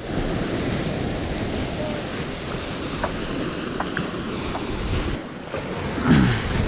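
Ocean surf breaking and washing, with wind buffeting the microphone. Near the end comes a short falling vocal sound, like a shout.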